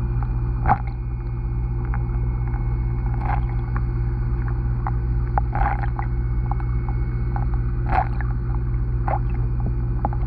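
Underwater pond sound through a submerged camera: a steady low hum with five short, sharp pops spread through it.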